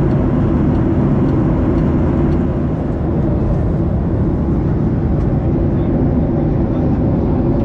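Jet airliner cabin noise: a steady, loud rush of engine and airflow with a low rumble, heard from a seat inside a Ryanair Boeing 737.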